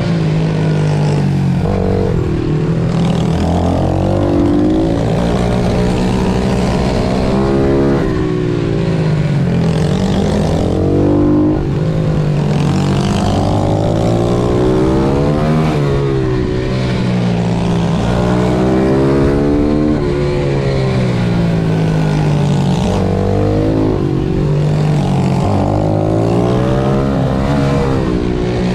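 Pit bike engines racing, their revs climbing and dropping again and again through the corners, with more than one engine heard at once.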